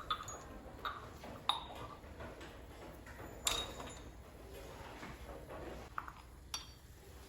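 Kitchen dishes and utensils being handled: about six separate sharp clinks and knocks, some ringing briefly, spread across the few seconds.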